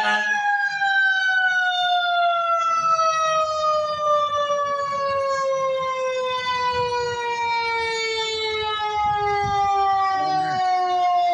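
Fire engine's mechanical siren winding down: one long wail that falls slowly and steadily in pitch, with a low vehicle rumble beneath.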